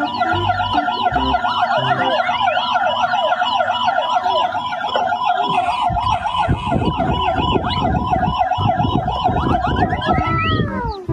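Electronic toy emergency-vehicle sirens, several overlapping, warbling quickly up and down. A rattling clatter joins about six seconds in, and near the end one siren winds down in pitch.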